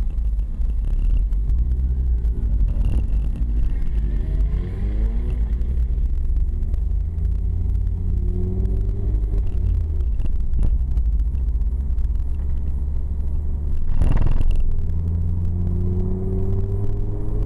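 Ford Focus RS engine heard from inside the cabin, accelerating hard through the gears: its pitch rises in several sweeps, with breaks at the gear changes. A brief loud whoosh comes about fourteen seconds in, at a break in the engine note.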